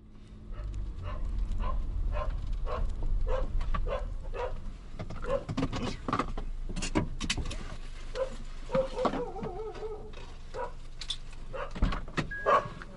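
A dog barking repeatedly, short barks roughly one a second, over a low rumble that fades after the first few seconds.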